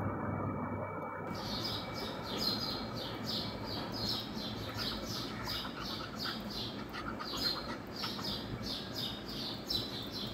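Small birds chirping in a rapid, continuous series, about three chirps a second, beginning about a second in.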